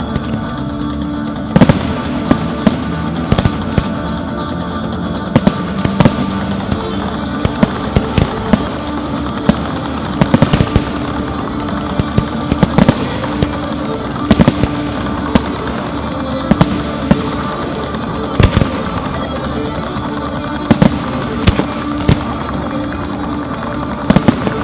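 Fireworks display: many sharp bangs and cracks at irregular intervals, several a second at times, over music.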